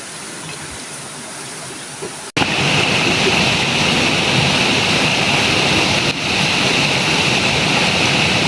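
Steady rush of flowing river water. About two seconds in the sound breaks off for an instant and comes back louder.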